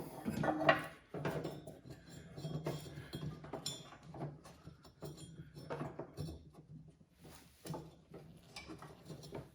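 New deck belt being worked around the pulleys of a John Deere LA105 mower deck: scattered light metallic clinks and knocks.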